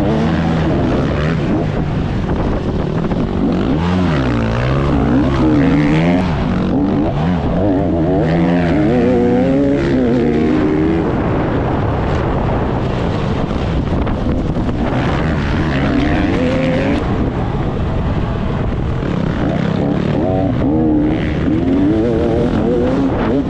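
Motocross bike engine being ridden hard, revving up and dropping back over and over through the gears.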